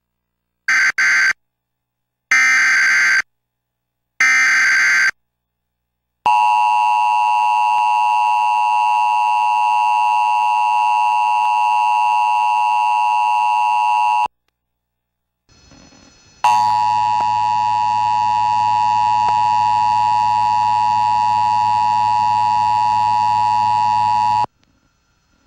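Emergency Alert System bulletin tones: three short bursts of the screeching digital SAME header, then the steady two-tone attention signal held for about eight seconds. After a short gap a second steady tone of about eight seconds follows, carrying a low hum.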